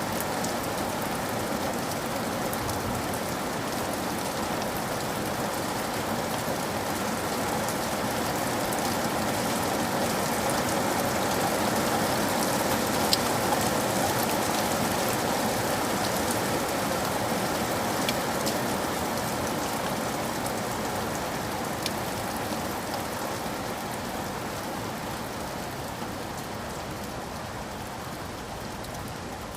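Steady rain falling on a surface, with scattered drop ticks; it swells a little around the middle and eases off toward the end.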